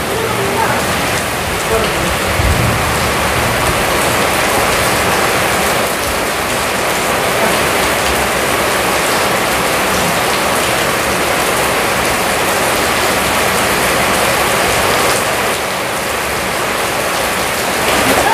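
Steady downpour of rain falling on a wet concrete yard.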